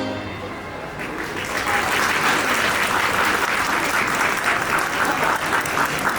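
Audience applauding at the end of a live band's number, the last of the music dying away at the start and the clapping building up about a second in.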